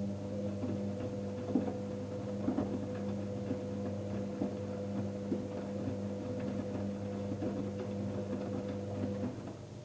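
Electrolux washing machine motor turning the drum in the wash: a steady hum with irregular light knocks from the tumbling load, stopping about nine seconds in.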